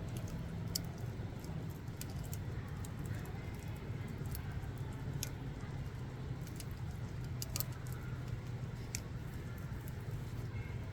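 Campfire burning, with irregular sharp crackles and pops of the burning wood over a steady low rumble.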